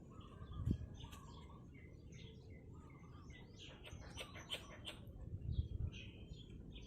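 Faint birds chirping and calling, with a quick run of chirps about four seconds in. A single low thump sounds near the start.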